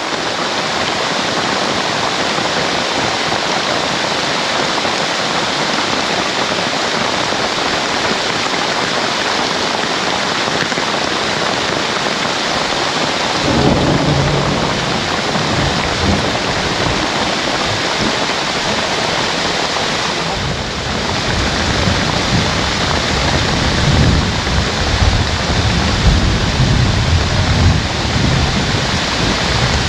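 Heavy rain pouring down steadily onto a hut roof, a dense even hiss. From about halfway through, a low rumbling joins in and swells and fades.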